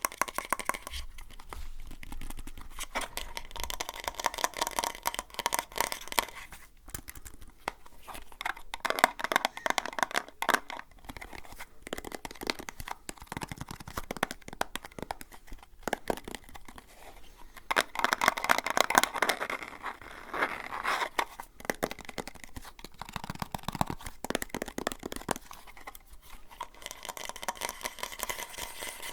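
Close-miked hands crinkling, crackling and scratching a crinkly material as an ASMR trigger, with dense irregular crackles that grow busier around a third and two thirds of the way through.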